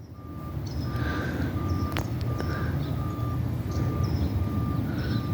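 Garbage truck engine running low and building up over the first second, over the steady beeping of its reverse alarm.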